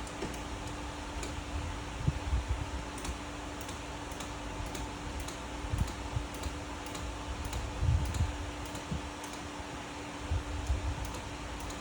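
Hand-operated fluid pump being worked stroke after stroke to push ATF into a manual transmission's fill hole, clicking about twice a second with a few dull knocks, over a steady hum.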